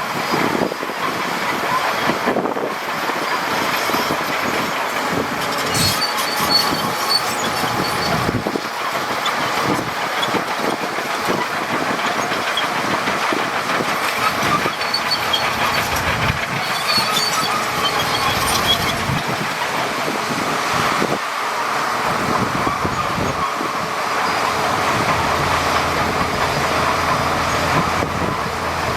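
Crawler bulldozer working, its engine running steadily while the steel tracks clank and squeal. Bursts of high-pitched track squeal come twice, about six and seventeen seconds in.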